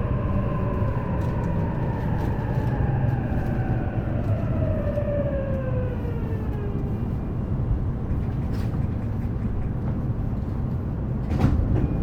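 E233 series electric train heard from inside the car, slowing for a station: the traction motors whine in several tones that fall steadily in pitch and fade out about halfway through, over a steady rumble of wheels on the rails. A sharp knock near the end.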